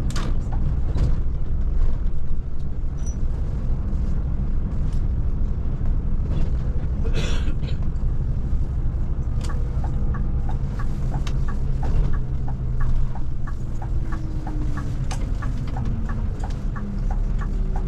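Scania Touring coach running on the road, heard from inside: a steady low engine and road rumble. A short hiss comes about seven seconds in, and from about halfway a regular ticking runs at roughly two ticks a second while the engine's pitch slowly shifts.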